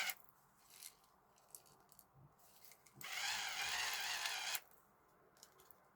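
Electric rechargeable pepper grinder's motor whirring for about a second and a half as it grinds black peppercorns on its finest setting, then stopping, with a few faint clicks in the quiet stretches around it.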